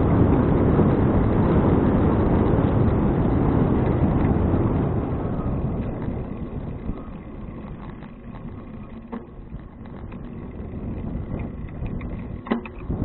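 Wind rushing over the action camera's microphone while cycling. It is loud for the first five seconds, then eases off, with scattered small clicks and a sharper click near the end.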